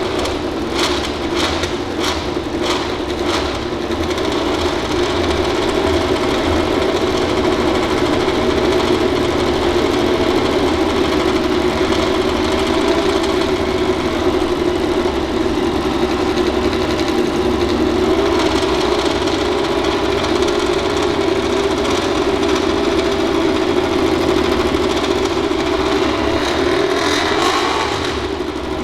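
MotoGP racing motorcycle engine running steadily at a held pitch, with a quick series of sharp bursts in the first few seconds and the pitch rising near the end.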